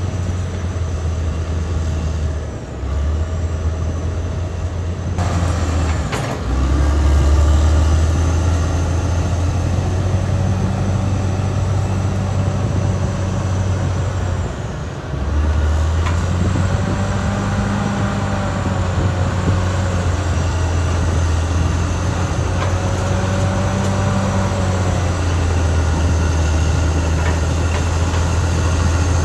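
Caterpillar D6R XL bulldozer's diesel engine running hard with its tracks clanking along, the engine pitch rising and falling twice in the second half as the load changes.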